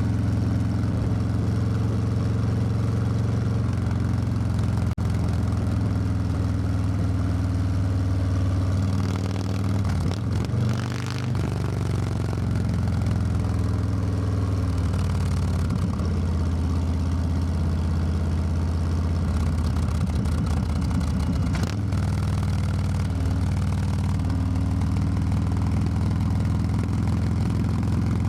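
Harley-Davidson Low Rider S V-twin engine running on the move, a steady note that shifts briefly about ten seconds in and again around twenty seconds in.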